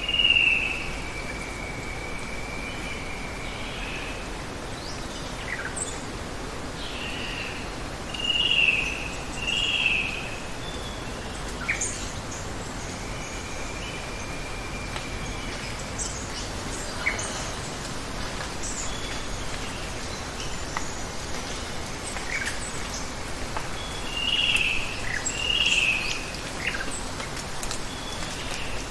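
Birds calling over a steady hiss of running water: a long drawn-out whistle near the start and again about halfway, loud pairs of short calls about a third of the way in and near the end, and scattered short high chirps.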